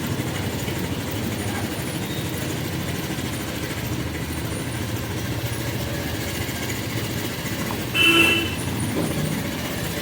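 Steady riding noise of a motorbike on the road, its engine rumble mixed with wind on the microphone. A vehicle horn toots once, briefly, about eight seconds in.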